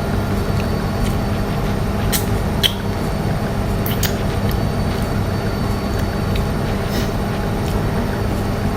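A steady low mechanical hum, with a few short sharp clicks and cracks from eating shell-on prawns by hand.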